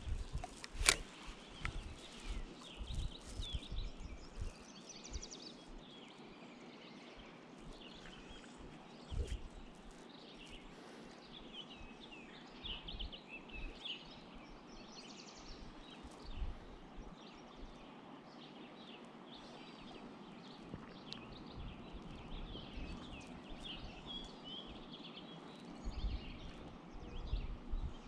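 Birds singing and chirping steadily, with a sharp click about a second in and a few low knocks, the loudest near the start and near the end.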